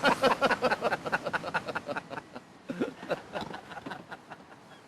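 People laughing: a run of short, rapid bursts of laughter, a second run starting about three seconds in, fading out near the end.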